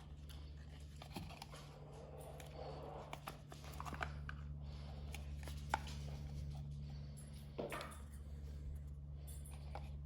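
Faint handling of a trading-card box and its packaging: scattered light clicks and taps with a short stretch of rustling about two seconds in, over a steady low hum.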